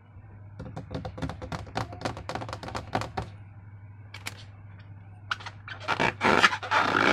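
Slime being squeezed and worked, a quick run of wet clicks and crackles that gives way near the end to louder, longer squelching pushes. A steady low hum runs underneath.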